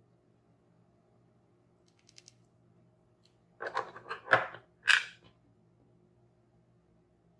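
Toy packaging or pieces being handled: faint ticks, then a short cluster of rustling and clicking handling noises, the last two the loudest.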